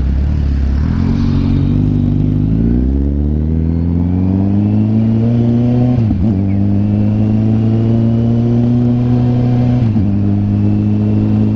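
Kawasaki Z900's inline-four engine pulling away and accelerating, its pitch rising over the first few seconds, then running steadily. It briefly dips about six seconds in and again near ten seconds, as it does at an upshift.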